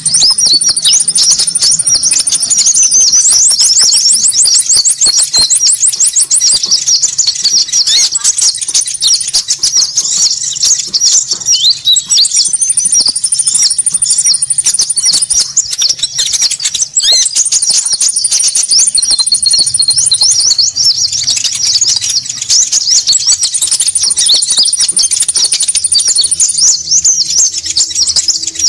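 Bird-lure (pikat) call recording of konin birds: a dense, noisy chatter of many high-pitched chirps with no break, and a thin, high, steady trill that comes in every few seconds and lasts two to three seconds each time.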